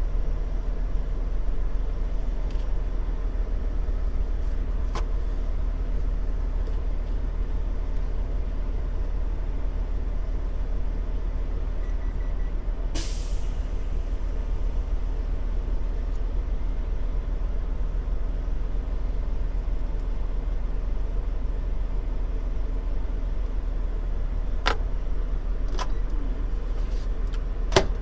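Steady low drone of an idling truck engine, heard from inside the cab. About halfway there is a sharp hiss of air lasting about a second, and a few sharp clicks come near the end.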